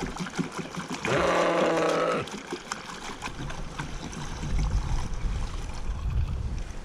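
Petrol trickling from a can into a quad bike's fuel tank, splashing over. About a second in, a loud pitched call lasts about a second.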